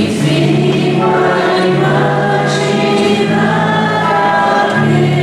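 A church choir singing a hymn in long held notes, the offertory song of a Catholic mass.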